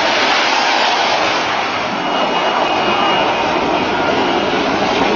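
Loud, steady rushing noise of a car driving hard at speed, engine and tyres on loose ground blended together.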